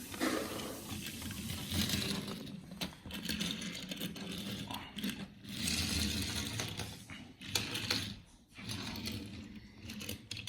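Small die-cast toy cars being handled, with irregular clicking and rattling of their metal bodies and plastic wheels and parts.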